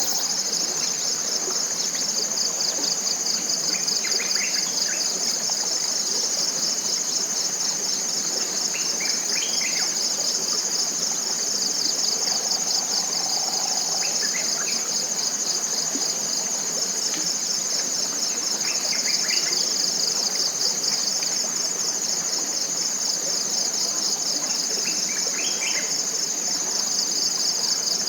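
Dense chorus of forest insects: a loud, high, steady trill with a fast pulsing texture. A bird's short phrase of a few quick notes repeats about every five seconds over it.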